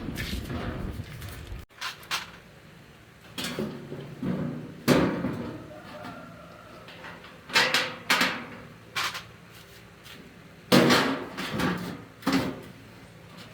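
A steady noise that cuts off abruptly about two seconds in, then a series of irregular knocks and clunks, as of hard objects being handled and set down.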